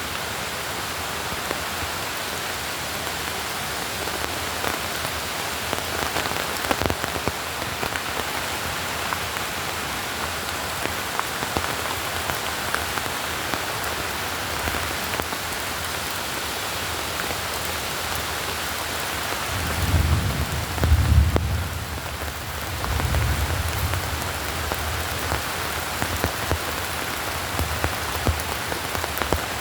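Steady rain falling, with scattered separate drops ticking. About twenty seconds in, a low rumble comes twice.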